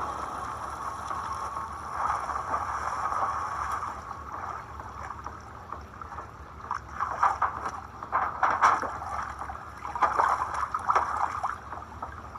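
Water splashing and sloshing in irregular bursts, loudest about seven to eleven seconds in.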